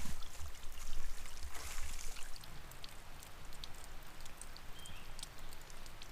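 Footsteps through dry leaf litter on the forest floor for the first couple of seconds, then quieter, with scattered small ticks and crackles.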